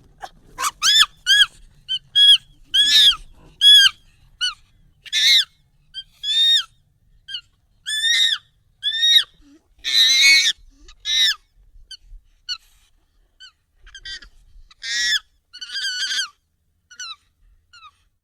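Monkey calls, sped up and pitched high: a run of short squeaky calls, each rising then falling in pitch, coming one or two a second. A longer, louder call comes about ten seconds in.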